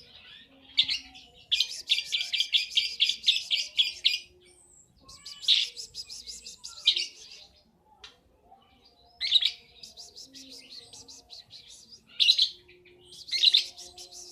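A young lovebird chattering in rapid, high trills. It sings in several bursts of fast repeated notes with short pauses between them.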